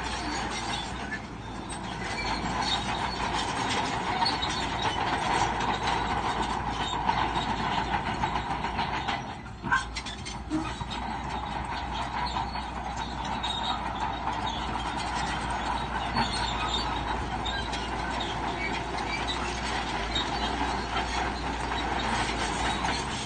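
Crawler bulldozer running and travelling, its steel tracks giving a steady squeal over a continuous clatter, with a brief lull about halfway through.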